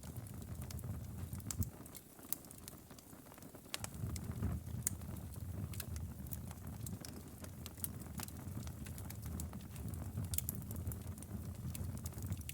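Outdoor wood fire crackling, with many sharp irregular pops over a low, steady rumble of flames. The rumble drops away for about two seconds near the start, then returns.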